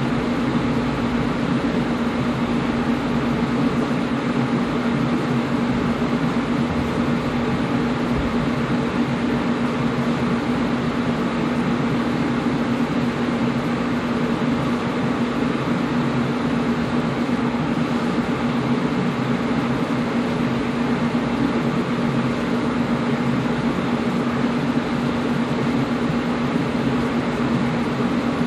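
Air conditioner running steadily: an even rushing of air with a constant low hum from its motor or compressor.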